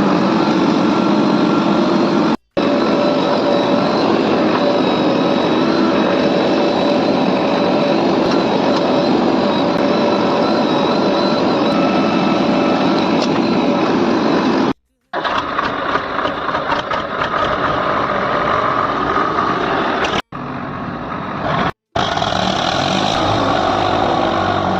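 Diesel engine of a JCB backhoe loader running steadily at working speed, cutting out briefly three or four times where clips are joined.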